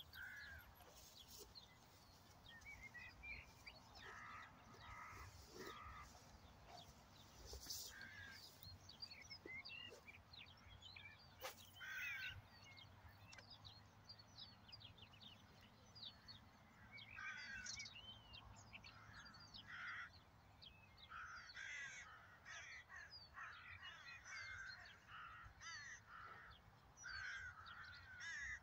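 Faint outdoor ambience of birds calling: scattered short calls that grow busier in the second half. There is a single sharp click near the middle.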